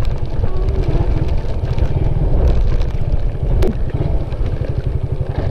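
Wind buffeting the microphone while riding a Suzuki Raider 150 motorcycle, a steady heavy rumble with the bike's engine running underneath. There is one sharp click about three and a half seconds in.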